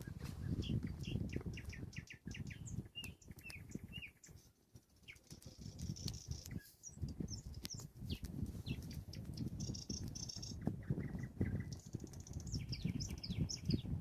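Nightingale singing: varied phrases of repeated chirps, whistled notes and buzzy trills, over a dense low crackling noise that briefly drops away about four seconds in.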